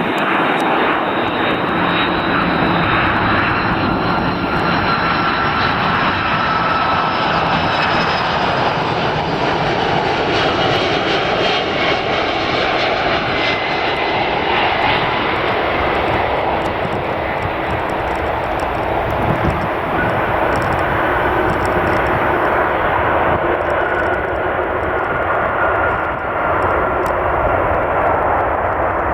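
Jet airliner's engines running as it comes in to land: a loud, steady rush with a high whine that slowly falls in pitch.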